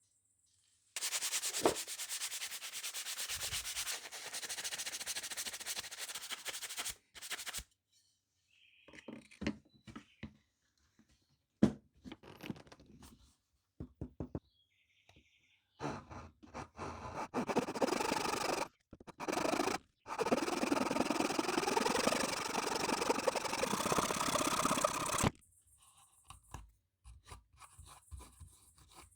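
Sandpaper rubbing back and forth in two long bouts of several seconds each, with short scrapes and knocks between them.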